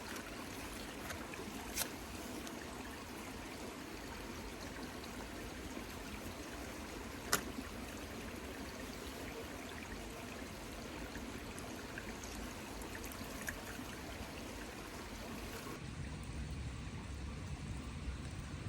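Steady trickling, running water, with a few sharp clicks.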